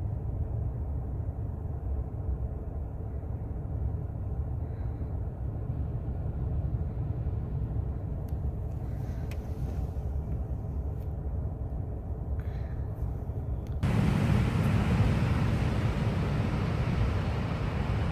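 Ocean surf from big swells, a steady low roar. About fourteen seconds in it suddenly turns louder and hissier.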